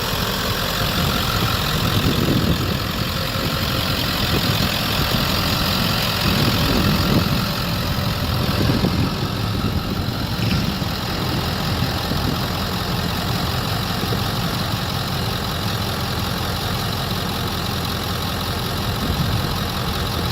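Ford 7.3 Powerstroke turbo-diesel V8 idling steadily, with a few slight swells in level in the first half.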